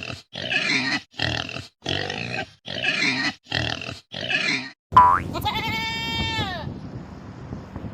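Pig grunting, six short rough grunts in a steady rhythm. About five seconds in, a single clear, drawn-out animal call follows, sliding up at the start and down at the end.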